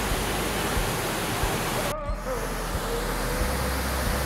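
Waterfall rushing: a steady, even noise of falling water, with a brief break about two seconds in.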